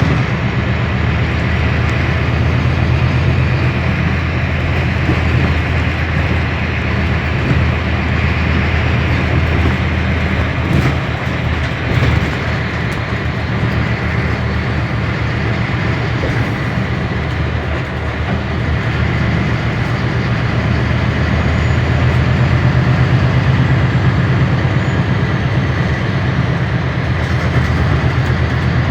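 Scania K320 hybrid city bus running: a steady low drone of its drivetrain over road noise, with a few knocks about eleven and twelve seconds in, growing louder about two thirds of the way through.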